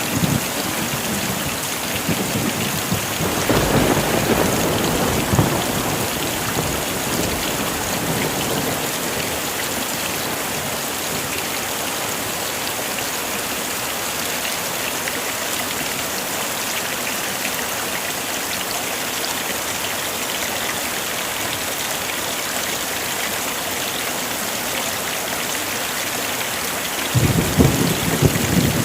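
Heavy rain falling steadily, with low rolls of thunder about three seconds in and again near the end.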